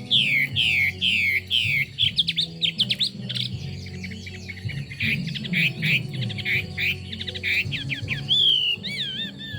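Chinese hwamei singing: a run of repeated downward-slurred whistles, then a fast, varied jumble of notes, ending in a held whistle and wavering, warbled phrases.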